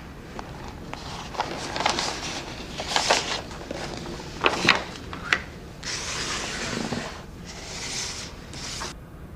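Handling noises: rubbing and rustling with several sharp clicks in the first half, then a few longer hissing swishes near the end.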